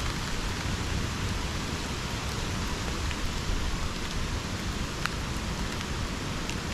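Steady rain falling in subtropical rainforest, an even hiss with the occasional sharp tick of a single drop.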